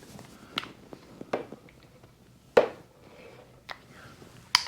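A few scattered light clicks and knocks, about five in all, from things being handled; no drill is running.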